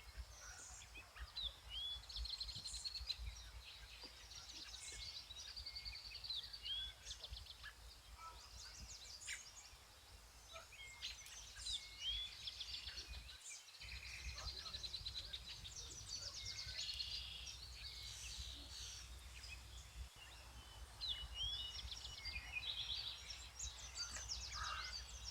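Several songbirds singing at once: a steady chorus of rapid trills and short whistled chirps, over a faint low rumble.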